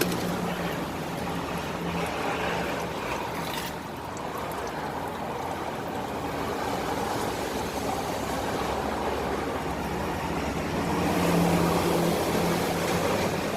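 Used motor oil pouring in a steady stream from a Chevy Tahoe's open oil-pan drain hole into a drain pan, a continuous rushing splash, with a low hum that fades after the start and returns near the end.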